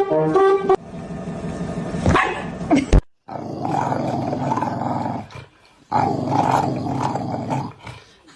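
A dog growling in two long growls of about two seconds each, with a short break between them. A brief high-pitched sound comes near the start.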